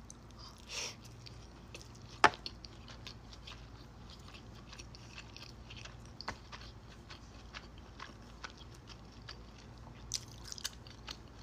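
Close-miked chewing and biting of a sushi roll: soft, wet mouth clicks and smacks throughout, with one sharp louder click about two seconds in and a small flurry near the end.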